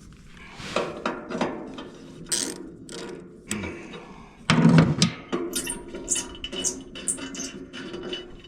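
Wrench work on the bolts of a wood chipper's steel access panel: a run of irregular metal clicks and clanks, the loudest about four and a half seconds in, then quicker small clicks.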